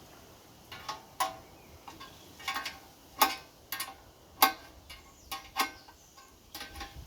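Irregular sharp metallic clinks and taps, about a dozen, some ringing briefly, as of metal tools or parts being handled and knocked together.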